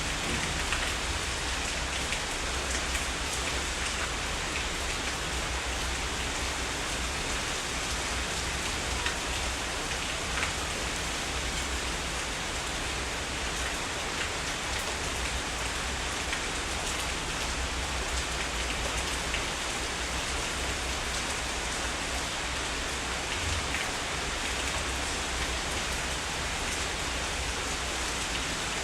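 Heavy rain falling steadily, an even hiss of dense rainfall.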